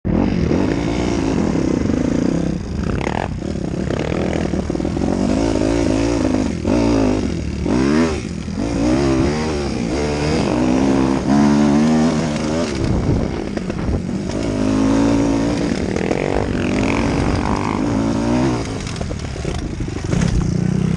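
Kawasaki KX250F's four-stroke single-cylinder engine revving hard as the dirt bike is ridden off-road, its pitch climbing and dropping again and again with the throttle and gear changes.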